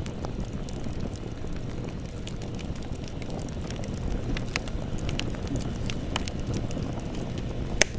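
Campfire burning with a steady low rumble and scattered sharp crackles and pops of burning wood, one louder pop near the end.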